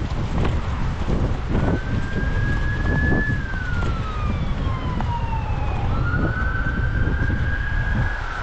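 Emergency vehicle siren wailing, its pitch rising and falling slowly about once every four seconds, over loud wind noise on the microphone.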